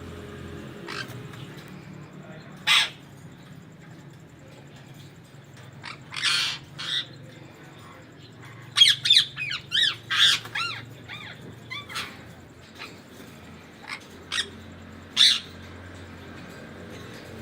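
Indian ringneck parakeets squawking: scattered sharp, shrill calls, with a quick run of repeated arching calls around the middle, over a low steady hum.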